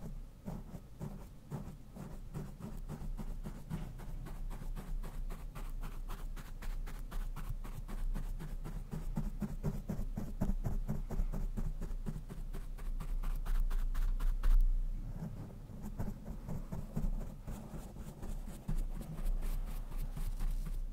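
A brush swept quickly back and forth over a Blue Yeti microphone: rapid, evenly repeated scratchy strokes with a deep rumble picked up through the mic. About two-thirds of the way through, after the loudest stroke, the strokes turn softer and duller.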